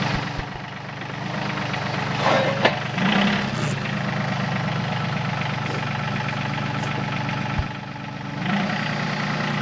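Yanmar YT235C compact tractor's diesel engine running steadily while it works pallet forks, dipping briefly in level twice, with a short burst of scraping noise about two to three seconds in.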